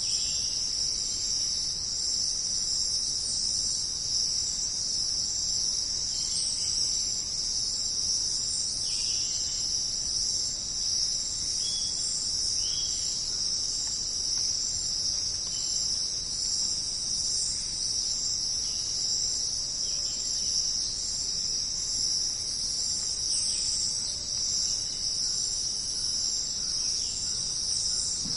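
Steady, high-pitched jungle insect chorus, an unbroken shrill drone, with a few faint short calls scattered through it.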